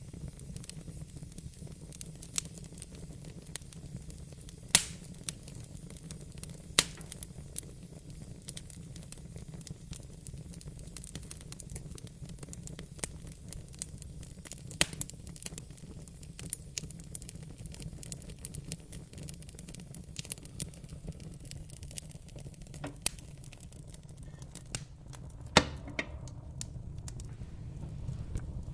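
Fireplace fire crackling, with many small pops over a steady low rumble, and three sharper, louder pops: two a few seconds in and one near the end.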